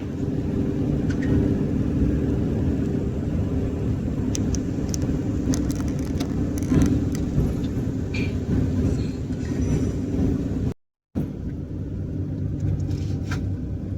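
Campervan on the move: steady engine and road rumble heard from inside the cab, with light scattered ticks and rattles. The sound drops out briefly about eleven seconds in.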